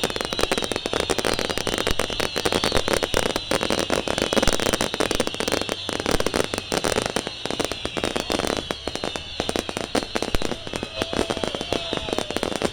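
Firecrackers and fireworks going off in a dense, unbroken string of cracks and pops.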